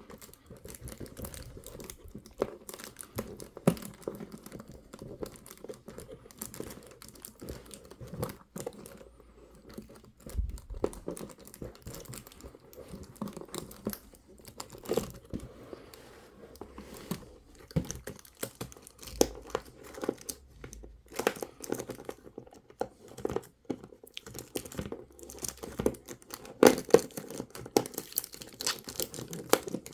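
Toy packaging being crinkled and torn open by hand: irregular rustling with small clicks and snaps, busiest near the end.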